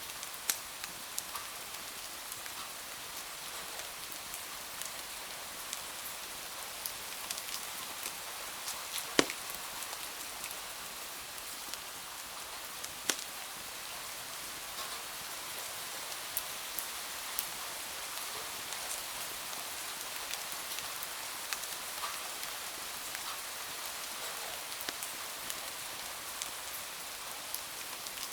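Steady rain hiss with scattered sharp pops and crackles from a wood fire, the loudest pop about nine seconds in.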